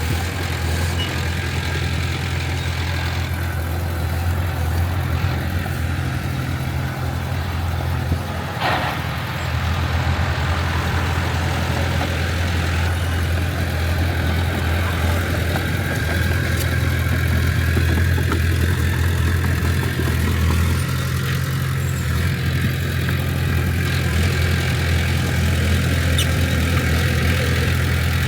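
Diesel engine of heavy earthmoving equipment running steadily with a low drone. There is a brief dip with a short knock about nine seconds in, and it gets slightly louder from about halfway on.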